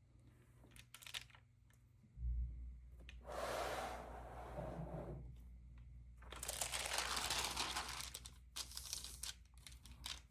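Stamp album pages being handled and turned: a few light clicks, then two long paper rustles of about two seconds each and smaller scrapes.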